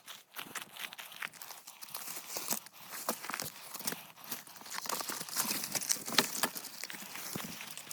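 Dry grass, twigs and brush crunching and crackling as they are cut, trodden and handled, in irregular crackles that grow louder in the second half.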